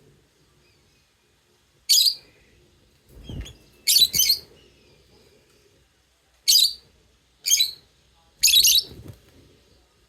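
Pet lovebirds giving short, sharp, high-pitched chirps in separate bursts, about six over the stretch, some doubled, a second or two apart. A softer low rumble comes about three seconds in.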